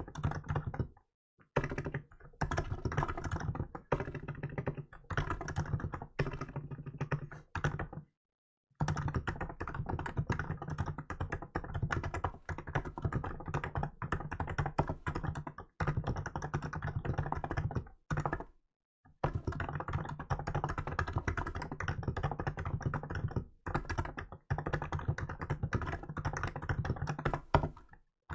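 Hansung GK868B (한무무) electrostatic capacitive keyboard with milk keycaps being typed on fast and continuously. Dense runs of keystrokes are broken by a few brief pauses: about a second in, around 8 s, and shortly after 18 s.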